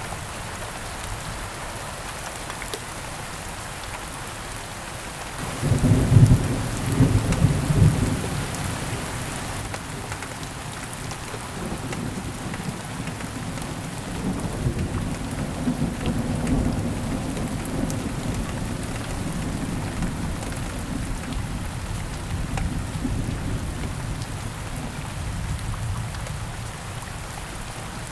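Steady rain falling, with a sudden clap of thunder about five seconds in, loudest for a couple of seconds, then a long low rumble that rolls on and fades out near the end.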